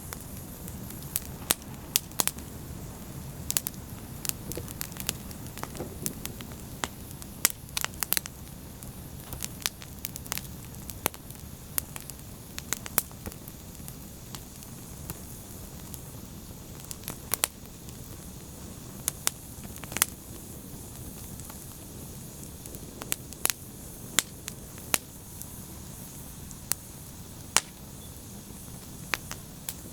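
Fire burning in a fireplace, crackling: frequent sharp pops at irregular intervals over a steady low rumble of the flames.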